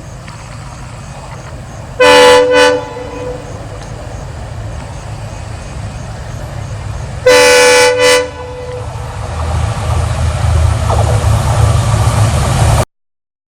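Bajaj Dominar 400's single-cylinder engine idling after a cold start, with a vehicle horn honking loudly twice, about two seconds in and again about seven seconds in, each honk briefly broken near its end. From about nine seconds the engine's low rumble grows louder, then the sound cuts off suddenly.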